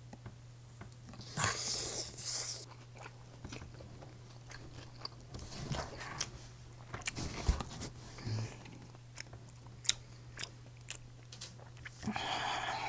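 Close-miked eating of breaded fried pork cutlet: a few loud crunchy bites with chewing and small wet clicks between them, over a steady low hum.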